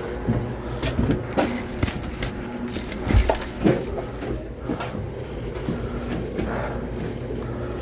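Irregular wooden knocks and clatter of split firewood pieces being handled and stacked, over a steady low hum.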